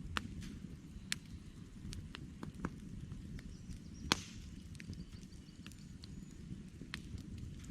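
Wood campfire burning, with scattered sharp crackles and snaps of the logs over a low steady rumble of the flames; the loudest pop comes about four seconds in.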